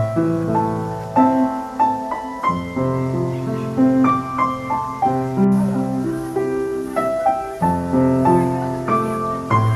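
Piano music: a steady run of struck notes and chords, each one ringing and fading.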